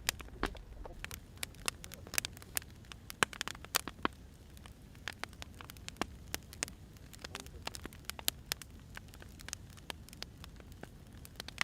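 Firewood fire crackling: irregular sharp pops and snaps, several a second, over a low steady rumble of the burning.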